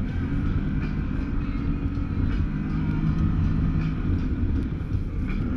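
Can-Am Maverick Sport X mr side-by-side's V-twin engine running steadily under load as it climbs the trail, its pitch mostly even and easing briefly near the end.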